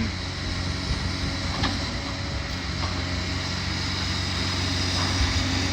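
Heavy demolition machinery's engine running steadily with a low hum, with a couple of faint knocks.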